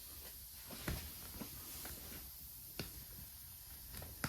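Faint, scattered taps and clicks of tools and tent material being handled during a patch repair, with one sharper knock about a second in.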